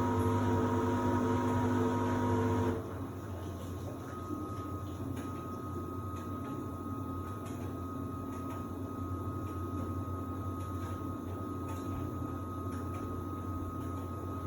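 Samsung WD70T4047CE washer-dryer running during a wash-and-dry programme. A steady motor hum with a whine cuts down sharply about three seconds in, leaving a quieter steady whir with a faint high whine.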